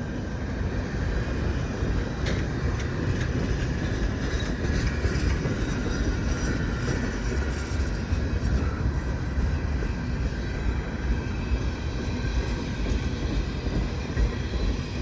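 Freight train cars, many of them tank cars, rolling past close by: a steady rumble of steel wheels on the rails with occasional clicks.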